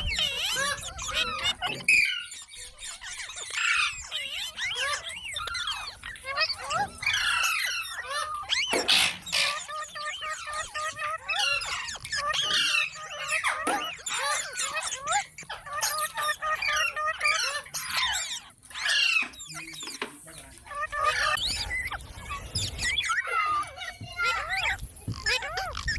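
Green parrot chattering and squawking: a dense run of quick, high, gliding chirps and screeches, with some talk-like babble.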